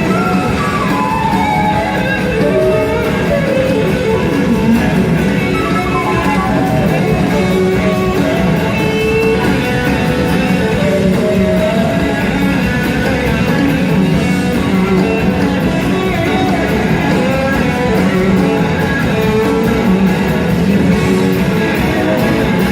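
Live blues-rock band music, loud and steady, led by an electric guitar whose notes glide down and up in pitch.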